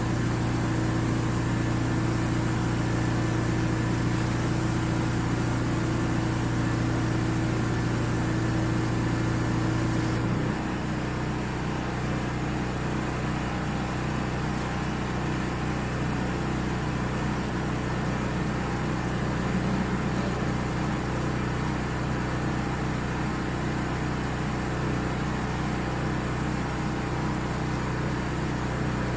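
Pressure washer's gas engine running steadily at working speed. About ten seconds in its tone shifts abruptly, then holds steady again.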